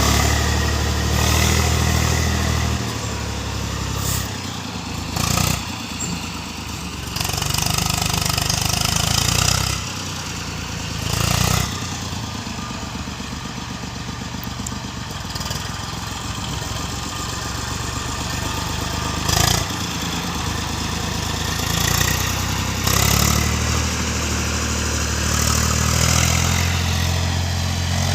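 Tractor engine running under load while ploughing a field, its note swelling and easing several times, with a few brief knocks.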